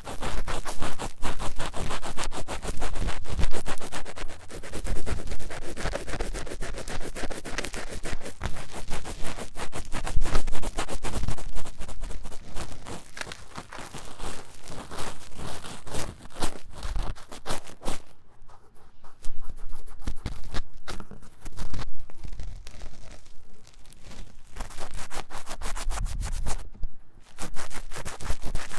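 Fast, vigorous scratching and scraping of ear-cleaning tools inside the silicone ear of a 3Dio binaural microphone, a dense run of rapid strokes with short lulls twice in the second half.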